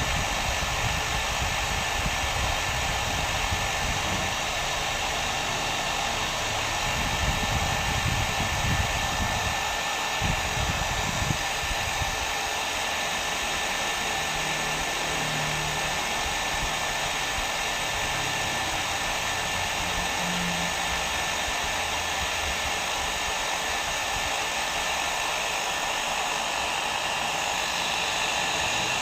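Hair dryer running steadily: a constant rush of blown air with a thin, faint high whine. A low, uneven rumble sits under it for roughly the first twelve seconds, then fades.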